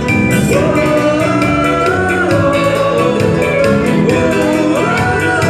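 Sertanejo pop song: a sung melody, with long held and gliding notes, over a full band accompaniment.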